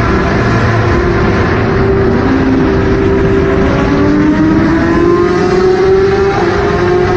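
Engine running loudly, with a steady hum and a second engine note that rises slowly in pitch over a few seconds as it revs up.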